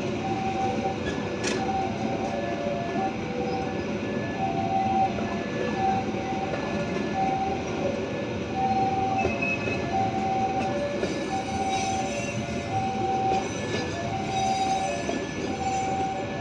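KAI passenger coaches rolling past with a steady rumble of wheels on the rails. Over it the level-crossing warning alarm repeats a short two-tone chime about every second and a half.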